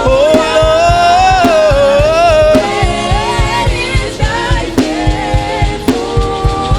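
Live gospel worship music: a voice sings a long, bending wordless line over a band with a steady drum beat.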